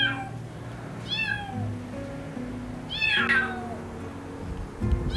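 A stray kitten about a month old meowing loudly and repeatedly: a few high-pitched, arching meows a second or two apart, crying out for help.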